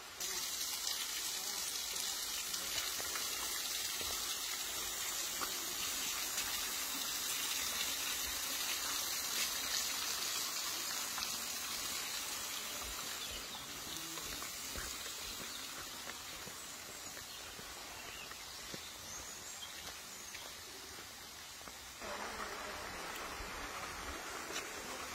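Waterfall water rushing and splashing in a steady hiss. The level shifts abruptly a couple of times, about 13 and 22 seconds in.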